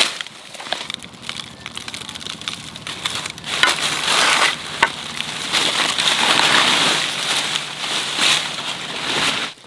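Irregular crunching and rustling with scattered sharp snaps, growing louder about a third of the way in.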